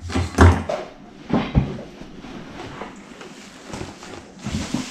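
Handling noises as webbing strap and bag gear are moved about on a work surface: a few sharp knocks in the first second and a half, then lower rustling and a couple of small knocks near the end.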